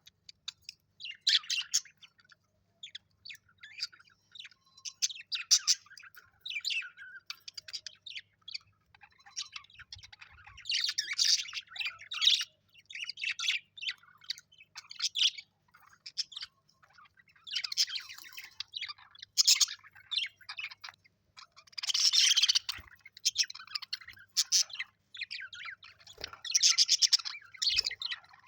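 Parrots chirping and chattering in quick, overlapping bursts of short high calls, coming in busy spells a second or two long throughout.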